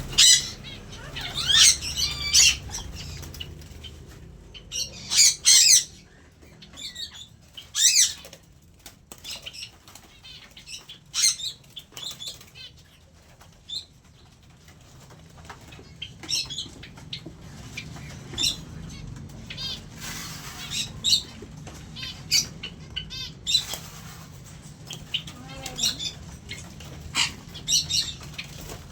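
A mixed aviary flock of small birds (lovebirds, cockatiels, Java sparrows and doves) chirping and squawking in short, sharp clusters of calls, with wings flapping, as hungry birds gather to be fed.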